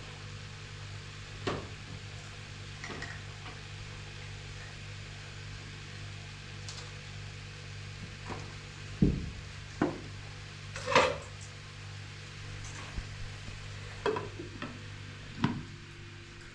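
A steady low hum with scattered knocks and clatter of hard objects, about eight in all, the loudest a little after nine seconds and about eleven seconds in.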